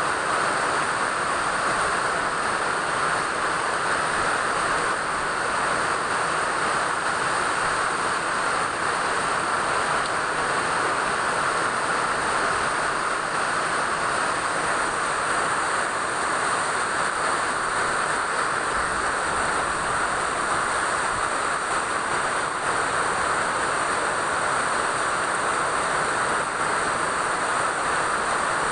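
Steady rain falling, an even hiss that keeps up without pause.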